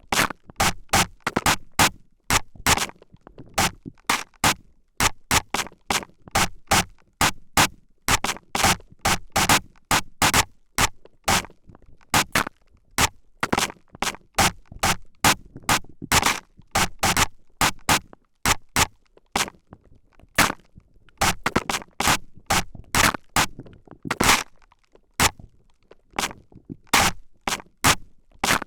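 Spray bottle sprayed in rapid short hissing bursts close to the microphone, about two to three sprays a second, with a couple of brief pauses.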